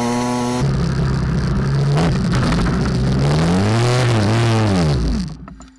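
Mini moto engine running hard at high revs, its pitch rising and falling a few times as the throttle is worked, then the sound cuts off sharply near the end.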